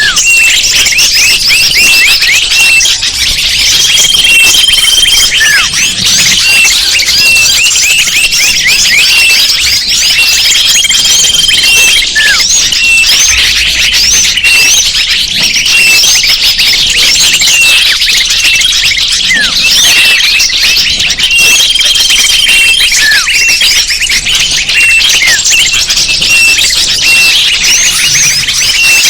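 Bird-lure (pikat) recording: a dense, loud chorus of many small birds' high chirps and twitters, overlapping without pause, with a held high whistle recurring every several seconds.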